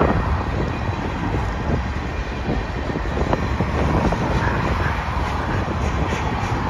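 Freight cars of a mixed manifest train rolling across a steel girder bridge: a steady rumble of wheels on rail, with scattered clicks and knocks from the wheels and couplers.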